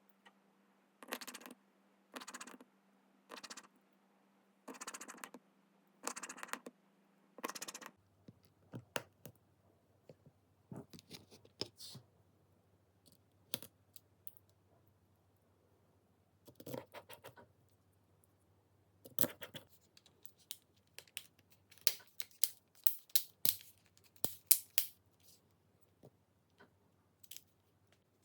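Small hand tools scraping and clicking on a smartphone during repair. First comes a run of regular scratchy strokes, about one a second. After a cut, irregular clicks and scrapes follow, busiest near the end.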